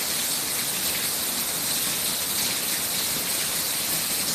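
Torrential thunderstorm downpour: heavy rain making a steady, dense hiss.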